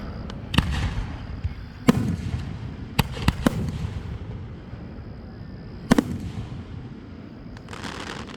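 Fireworks going off: about six sharp bangs at uneven spacing, the loudest about two seconds in and about six seconds in, some trailed by crackling, with a burst of crackling near the end.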